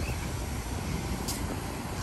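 A train running past with a steady low rumble, and a single short click about a second and a half in.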